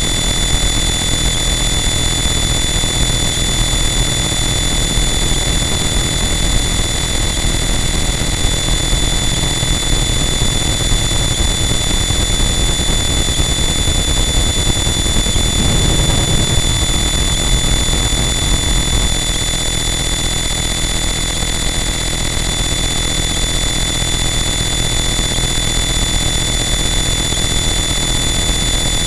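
Harsh noise wall: a dense, unchanging wall of loud static with steady high whistling tones and a heavy low rumble. About halfway through, a brief swell rises in the low range, and the rumble thins slightly soon after.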